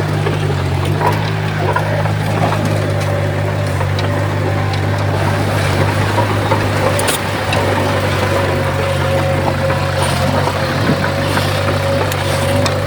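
Komatsu D51PX bulldozer's diesel engine running steadily with a constant whine over it, and a few scattered clanks.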